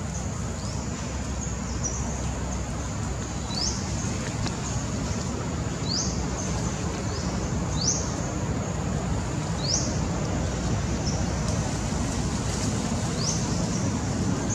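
A bird repeating a short, quick upward-sweeping whistle about every two seconds, over a steady low rumble.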